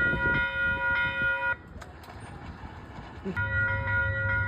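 Train horn held on one steady note, cutting off about a second and a half in and sounding again near the end, with a low rumble of the train under it.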